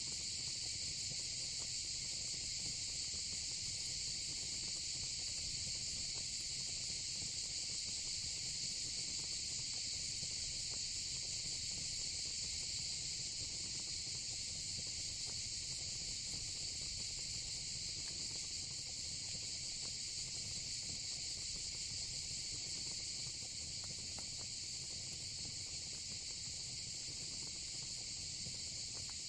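Steady, unbroken high-pitched chorus of insects such as crickets, with faint scattered crackles from a wood fire beneath it.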